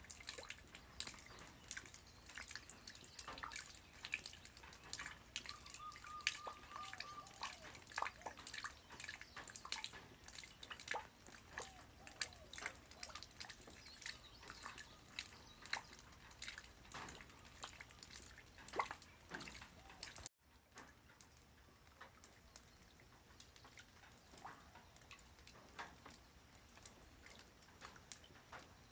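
Light rain dripping and pattering, with many separate drops ticking. About two-thirds of the way through the sound cuts out for an instant, then returns quieter with fewer, sparser drops.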